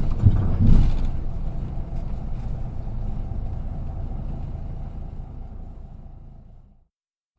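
Cabin running noise of an Isuzu KK-LR233J1 non-step city bus on the move, a steady low engine and road rumble with a couple of knocks in the first second. The sound fades out near the end.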